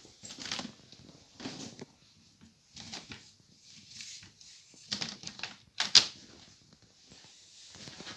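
Footsteps and handling noises, irregular thuds and scuffs about once a second, with one sharp click about six seconds in.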